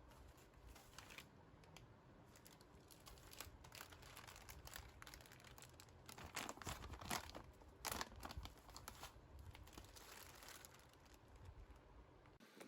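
Faint crinkling and rustling of packaging being handled, busiest about six to eight seconds in.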